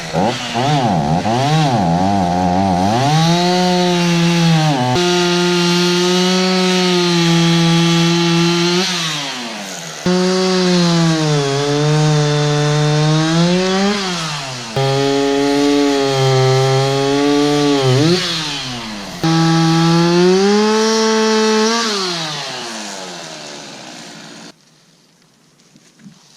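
Two-stroke chainsaw running hard through several cuts in a row, its pitch sagging as it loads up in the wood and rising again as it comes free. It cuts off suddenly near the end.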